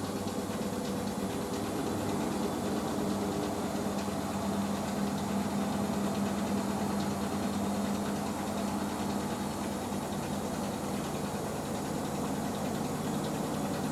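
Hoover H-Wash 500 washing machine in its rinse spin: the drum motor runs with a steady hum and whir and a constant level, without ramping up or down.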